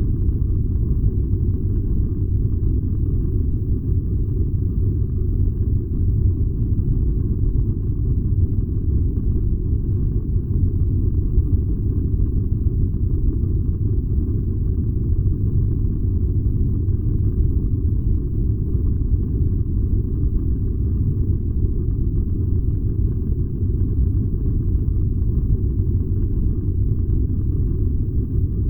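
Furnace running with a steady, unbroken low rumble.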